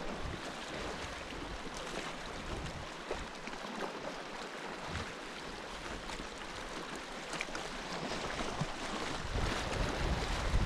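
Steady wash of water and wind along a tidal rock shore, with wind starting to buffet the microphone near the end.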